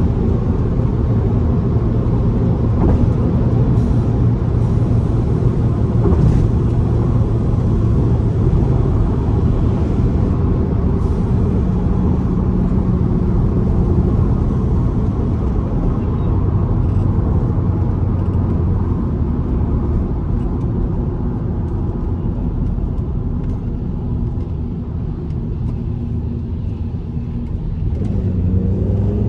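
Car engine and road noise while cruising on a highway, a steady low hum from a Fiat T-Jet turbo engine. It eases off a little past halfway and builds again near the end.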